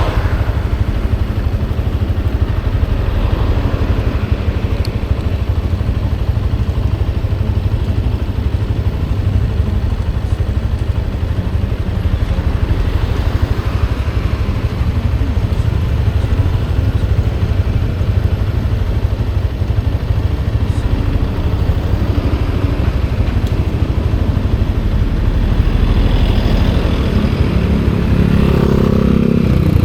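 Motorcycle engine running steadily under way, with a constant low rumble and road noise. Near the end the engine note grows louder and higher.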